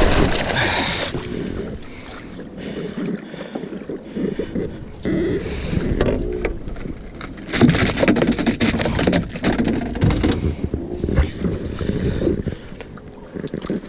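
Water splashing and sloshing around a kayak, with irregular knocks and rustles as a freshly caught fish is handled aboard.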